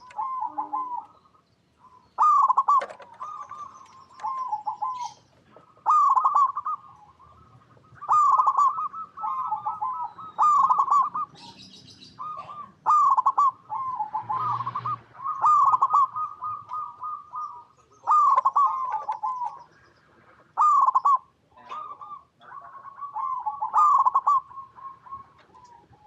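Zebra dove (perkutut) singing: phrases of soft, bubbling, staccato coos, repeated about every two seconds. There is a brief rustle about two thirds of the way through.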